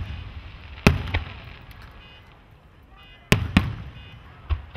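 Fireworks bursting overhead in a string of sharp bangs, each trailing off in a rumbling echo. There are two about a second in, two more a little after three seconds, and a smaller one near the end.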